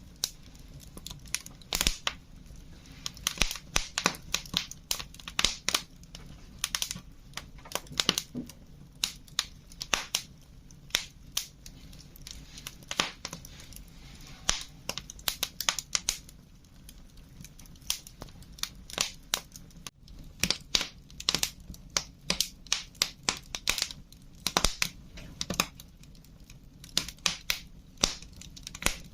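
Wood fire crackling, with irregular sharp snaps and pops coming in clusters, several a second, over a low steady background.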